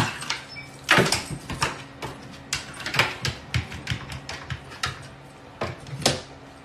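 Irregular knocks and thumps, about a dozen of them, over a faint steady hum.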